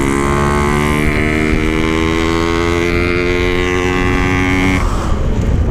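Yamaha RX King two-stroke single-cylinder engine, with a ported oversize-150 cylinder block, running hard at high revs under wind rush, its drone climbing slowly in pitch. Near the end the engine note drops away suddenly as the throttle is shut, leaving only the wind and road rush.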